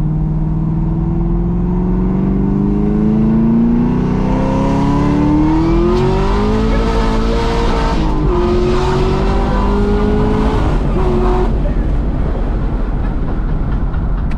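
Cammed, supercharged 6.2-litre V8 of a built Camaro ZL1 heard from inside the cabin under hard acceleration. The revs climb steadily for about eight seconds, dip briefly at a gear change, climb again, and drop away about eleven seconds in, leaving road and tyre noise.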